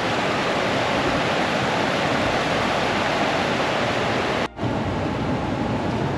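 River water rushing over rocks at a forest pool, a steady even roar that breaks off for an instant about four and a half seconds in.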